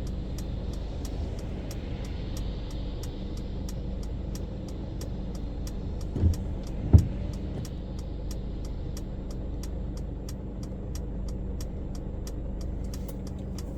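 Car driving on wet roads, heard from inside the car: a steady low rumble of engine and road, with tyres hissing on the wet surface. Two short thumps come about six and seven seconds in.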